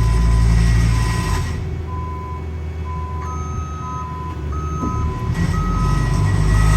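Reversing alarms on heavy paving machinery: one beeper sounds about once a second, and a second, higher-pitched beeper starts about three seconds in, alternating with it. Under them runs the steady rumble of diesel engines, which eases off in the middle and swells again near the end.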